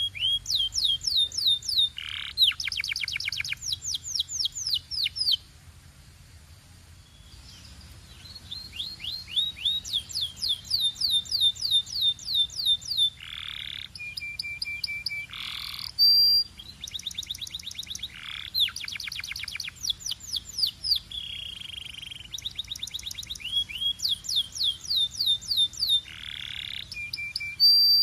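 Domestic canary singing in fast trills of rapidly repeated high notes, with a pause of a couple of seconds about five seconds in before the song resumes.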